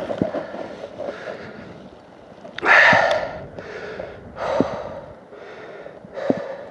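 Heavy breathing close to the microphone: four loud breaths, the strongest about three seconds in, with a few small knocks between them; the chainsaw is not running.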